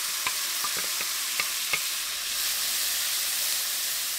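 Mushrooms, onions and garlic sizzling in a hot frying pan, with meat juices just poured in. A steady hiss runs throughout, with sharp crackles and pops through the first two seconds.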